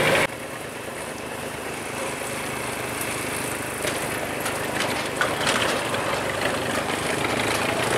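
A vehicle engine running steadily, with a few light clicks and knocks between about three and five and a half seconds in.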